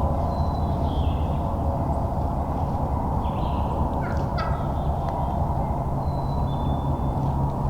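A wild turkey gobbling once, a short rattling call about four seconds in, over a steady low background rumble, with a few faint higher bird chirps.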